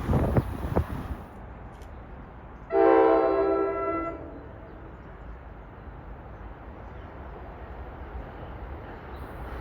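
New Jersey Transit train horn sounding one chord blast of about a second and a half, a little under three seconds in, over the steady low rumble of the train. In the first second, bursts of wind noise hit the microphone.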